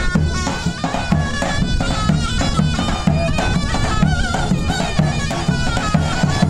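Turkish folk wedding music: a shrill reed wind instrument plays an ornamented melody over a steady bass drum beat.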